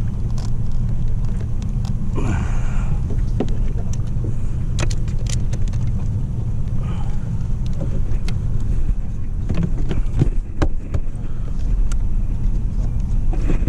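Carbureted outboard motor running steadily with a low hum, the boat under way, with scattered sharp knocks on the hull.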